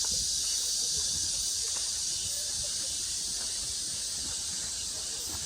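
A chorus of summer cicadas buzzing in one continuous, unbroken high-pitched drone.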